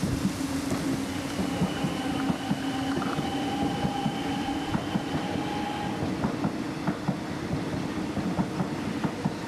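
Train running along the rails: a steady hum with a dense rattle of wheel clicks, and a thin higher whine from about a second in until about six seconds in.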